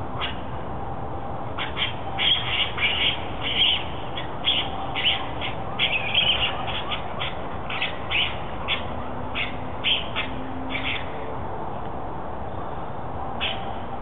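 Many short, high-pitched animal calls come in quick, irregular clusters, thinning out after about eleven seconds with a few more near the end, over a steady background hiss.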